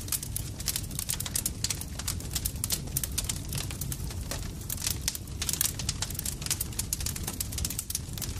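Campfire crackling: dense, irregular sharp pops and snaps over a steady low rumble of flames.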